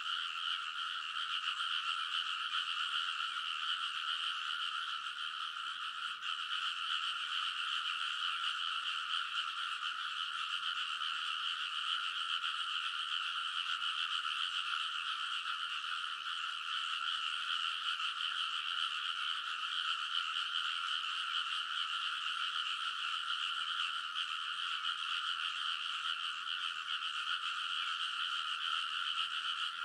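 A dense chorus of many frogs calling at once from a rice paddy, an unbroken din with two overlapping pitches, one higher than the other.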